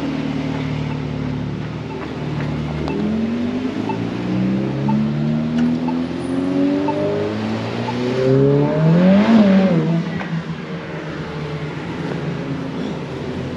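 A car engine accelerating hard, its pitch climbing in several steps as it shifts up, then passing close by about nine seconds in, its pitch rising and then dropping as it goes past.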